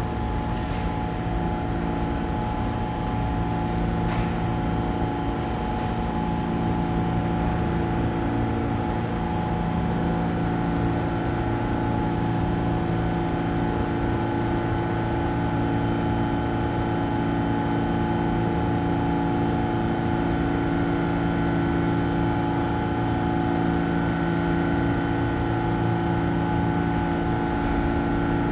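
New York City subway train standing at the station, its onboard equipment giving a steady hum with several held tones and no wheel or rail clicks.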